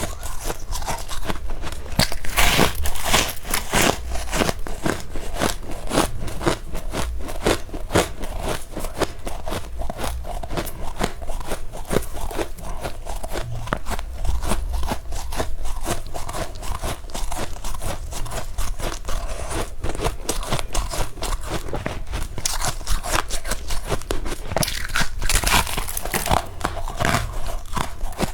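Close-miked biting and chewing of powdery freezer frost, a dense run of quick crunches throughout, with louder bursts of crunching a couple of seconds in and again near the end.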